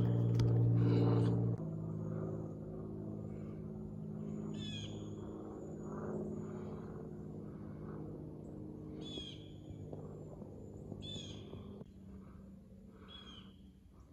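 A bird calling repeatedly, a short call about every two seconds, over a steady low mechanical hum. The hum is loud for the first second and a half, then drops to a fainter level and fades away near the end.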